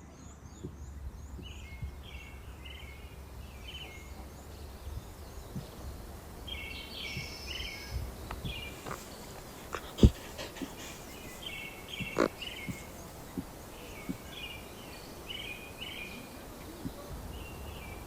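Small birds chirping in short repeated clusters, with a low wind-like rumble and two sharp clicks, about ten and twelve seconds in.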